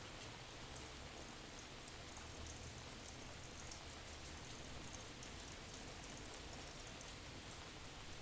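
Faint, steady rain with scattered small drop ticks, panned from side to side.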